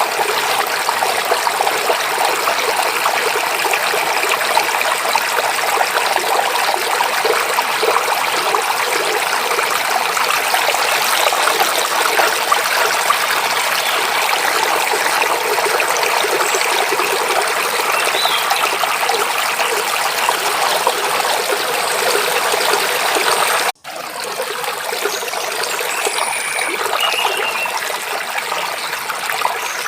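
Mountain stream babbling and splashing over small waterfalls, a steady rush of water. The sound cuts out for an instant about three quarters of the way through, then resumes a little quieter, with a few faint bird chirps near the end.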